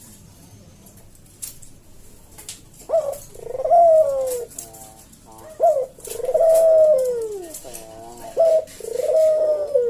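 A puter dove (Barbary dove) calling its slow 'kuk-deruk' coo: short notes each followed by a long arching coo, repeated three times, starting about three seconds in after a few faint clicks.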